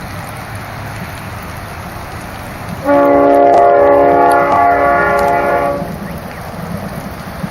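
A V/Line train's horn sounds one long blast of about three seconds, several notes at once, starting about three seconds in over the steady rumble of the passing train.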